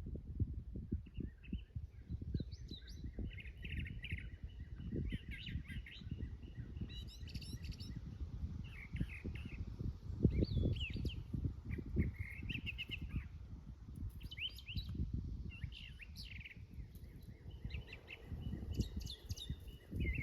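Garden birds chirping and twittering in short phrases, again and again, over a steady low rumble with dull thumps.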